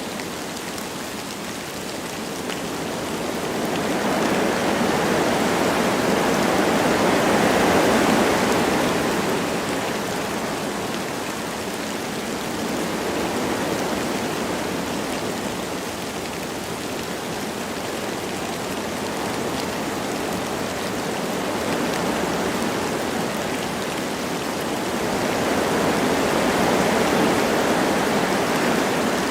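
Wind blowing through forest trees with light rain falling, a steady rushing that swells in two long gusts, around a quarter of the way in and again near the end, and eases between them.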